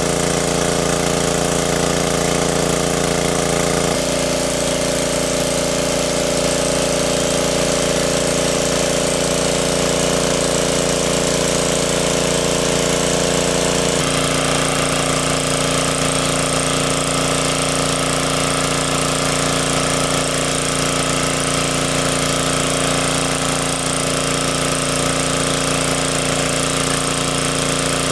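A small engine running steadily and loud, its pitch stepping to a new steady level about 4 seconds in and again about 14 seconds in.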